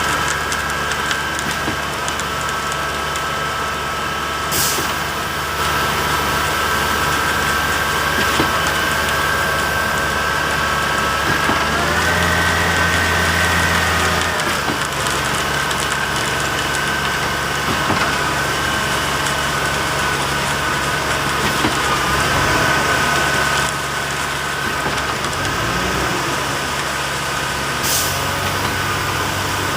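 A concrete truck's diesel engine running steadily. About twelve seconds in it revs up for a couple of seconds, then settles back. Two short, high hisses come through, one near the start and one near the end.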